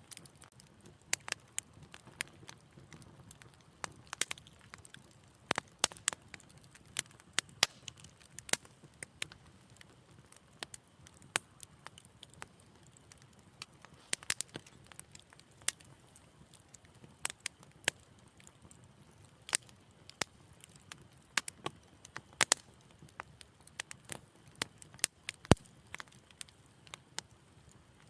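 Wood fire in a fireplace crackling: irregular sharp pops and snaps of varying loudness over a faint low hiss of burning.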